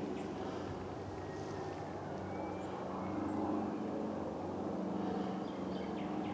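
A steady engine drone, with a few faint short high chirps near the end.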